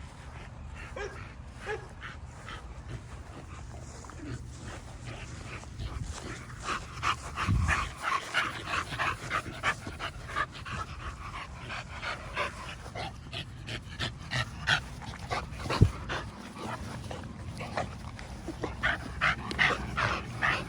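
American Bully puppies panting fast and rhythmically as they play rough, with a single thump about three-quarters of the way through.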